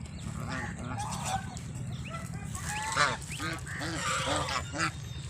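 Several domestic fowl calling over one another in a rapid string of short calls, over a steady low rumble.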